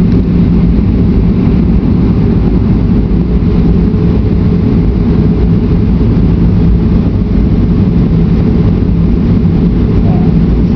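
Steady, loud drone inside an airliner cabin: engine and airflow noise heard at a window seat over the wing during the descent to land, low and even throughout.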